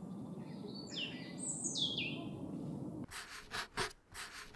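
A forest bird calling a few quick chirps that fall in pitch, about a second in, over a steady low outdoor hum. From about three seconds in there is a run of short crunching rustles, about three a second.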